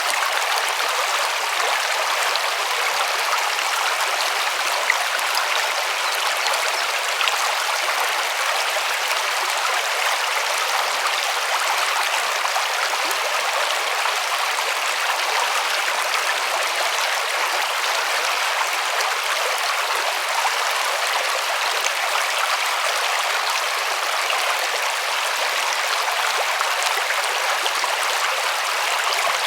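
River water running steadily over its bed: an even, unbroken rushing hiss.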